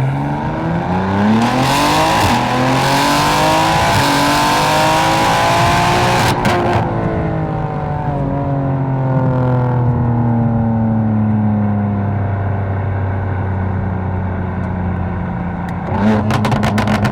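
A BMW M4's twin-turbo inline-six accelerating, its pitch rising for about six seconds, with a brief crackle about six seconds in. Then the revs fall away gradually and settle. A second burst of crackles comes near the end.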